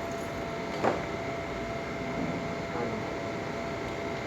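Steady room hum and hiss with faint steady tones, and a single light click about a second in.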